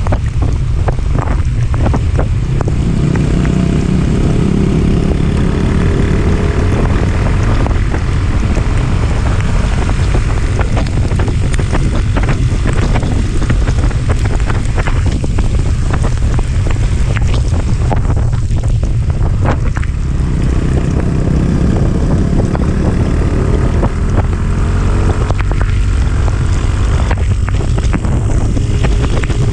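Wind buffeting the microphone on a moving motorcycle, a heavy steady rumble, with the engine note faintly rising and falling beneath it.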